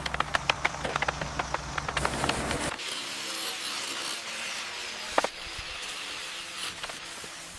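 Workshop sounds of a truck restoration: a quick run of taps and clicks over a low rumble, then a sudden change to a steady hiss with a single sharp knock about five seconds in.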